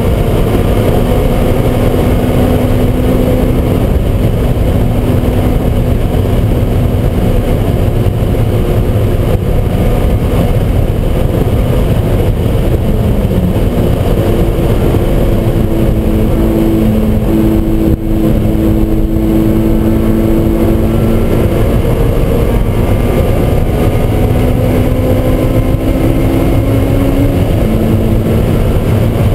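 In-cabin sound of a Honda S2000's four-cylinder engine pulling hard at high revs through a J's Racing 60RS exhaust and catless test pipe, mixed with wind and tyre noise. About 13 seconds in, the engine note drops briefly as the car brakes, then climbs back to a steady high pitch.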